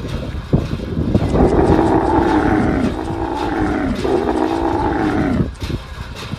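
Cow mooing: two long, loud moos, the second starting about four seconds in.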